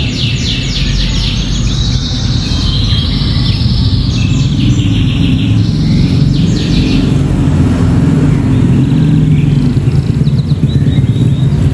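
Domestic canary singing fast, repeated trilled phrases learned from a bar-winged prinia (ciblek). The trills are densest in the first seven seconds and return briefly near the end. A loud steady low rumble runs underneath.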